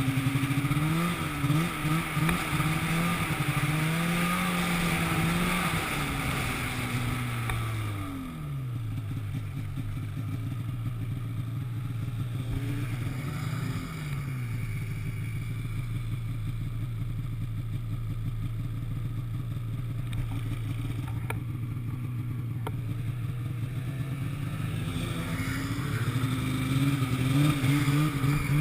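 An engine revving up and down unevenly, settling about eight seconds in to a steady low idle with one short rise in the middle, then revving up and down again near the end.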